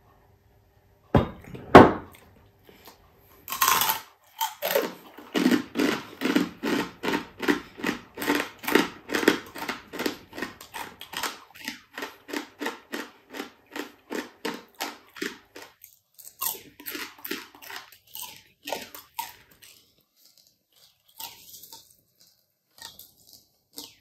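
Close-up chewing of crispy deep-fried boneless chicken-feet chicharon: a steady run of crunchy chews, about three a second, that slows and thins out after about sixteen seconds. A loud knock comes near the start.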